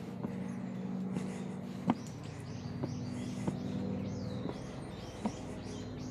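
Small birds chirping over a steady low hum, with a few sharp clicks or knocks, the loudest about two seconds in.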